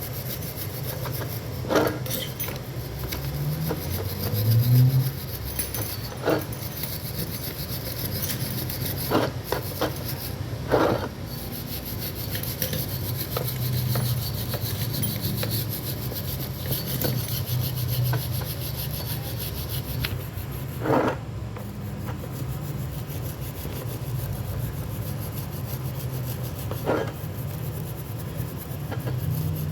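Continuous hand rubbing and scraping on metal car air-conditioning compressor parts as they are cleaned, with a few short sharp knocks scattered through.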